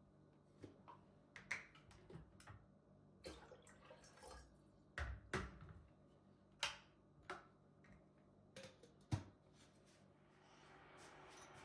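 Quiet kitchen handling sounds: scattered light clicks and knocks of dishes and utensils being set down and moved. A soft hiss builds near the end.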